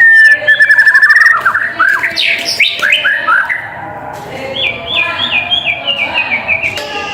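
White-rumped shama (murai batu) singing. It opens with a rapid trill of repeated notes, then gives loud down-slurred whistles, and ends with a run of short falling notes.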